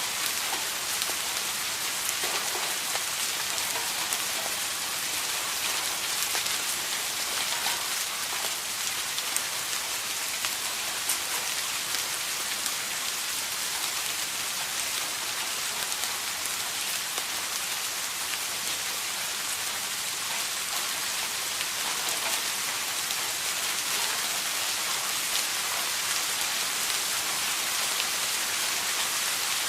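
Steady rain falling, a dense even hiss with many fine drop ticks and no thunder.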